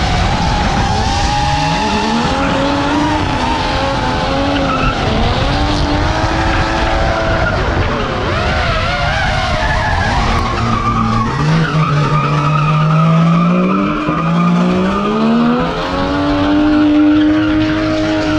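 Drift car engines revving hard, rising and falling in pitch with breaks between gear shifts, over tires squealing and skidding on the track. The revving climbs strongly near the end.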